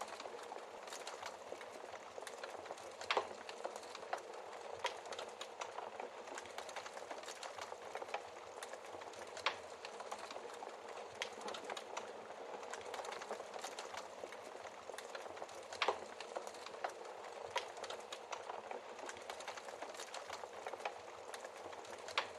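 Wood fire crackling in a fireplace: a steady soft hiss with irregular sharp pops and snaps, a few of them much louder than the rest.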